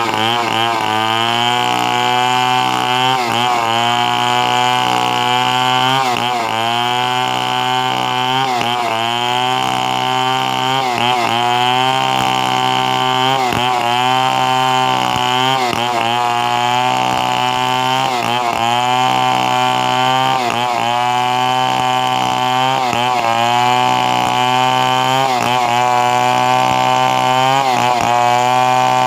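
Two-stroke chainsaw running at high revs while cutting wood. Its pitch dips briefly and recovers every two to three seconds as the chain takes load.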